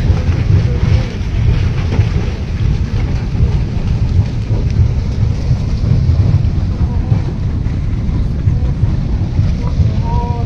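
Loud, steady low rumble of a landslide's rushing flow of mud and water, with a brief voice near the end.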